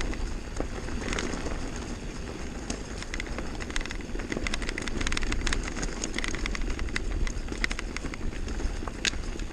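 Downhill mountain bike rolling fast over a rocky trail: tyres on loose stones with a steady rumble and frequent clicks and rattles from the bike, plus wind on the microphone.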